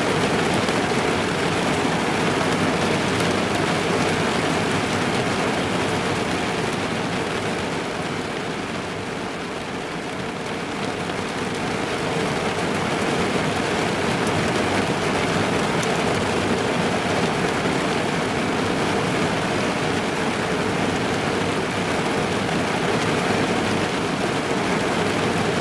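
Heavy rain drumming on the roof and body of a car, heard from inside the cabin as a steady dense patter that eases slightly for a few seconds partway through.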